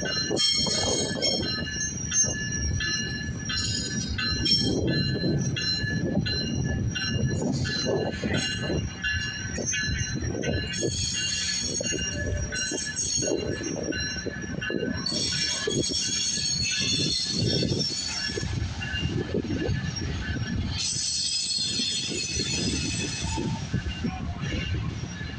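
Metrolink commuter train rolling along the station tracks, its wheels rumbling, with high-pitched wheel squeal that comes and goes in several stretches.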